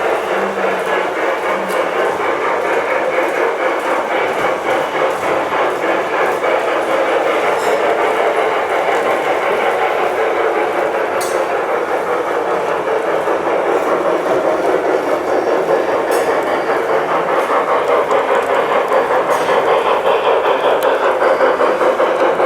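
LGB G-scale model train running on the layout's track, a steady rolling rumble with a few sharp clicks, growing slightly louder near the end.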